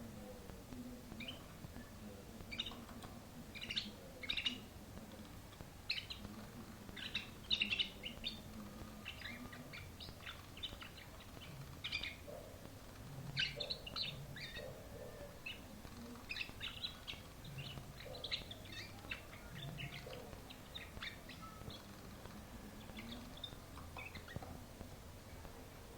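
Domestic canary singing: a run of short, high chirps and quick trills in irregular bursts, a little louder about four and seven seconds in.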